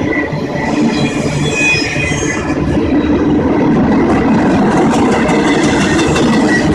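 Train rolling past, a steady rumble and rattle of the cars with short high squeals from the wheels.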